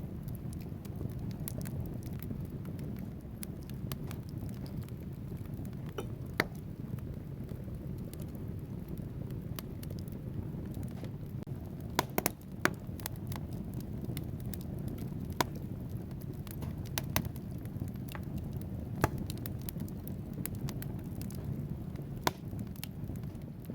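Wood fire burning in a fireplace: a steady low rumble of flames with irregular crackles and sharp pops from the burning logs, a few pops standing out louder than the rest.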